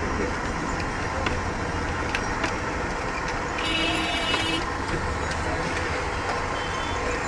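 Busy street ambience: steady traffic din with scattered clicks, and a brief high-pitched tone about halfway through.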